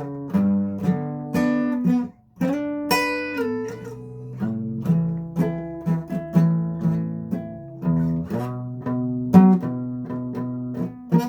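Acoustic guitar being played, plucked notes and strummed chords ringing out, with a brief pause about two seconds in.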